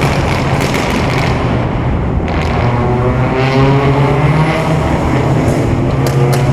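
A car engine running under way, steady, its pitch climbing through the middle as it accelerates.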